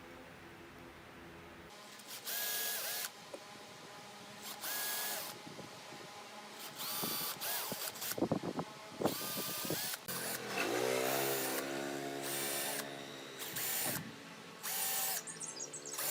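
Cordless power drill run in short bursts of about half a second to a second, several times over, its motor whining as it drives screws. A few sharp knocks fall in the middle, and one longer run has the motor's pitch rising as it spins up.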